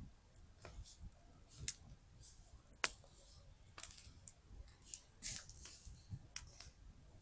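Campfire wood crackling: irregular sharp snaps and pops, two of them much louder around the middle, over a faint low rumble of the fire.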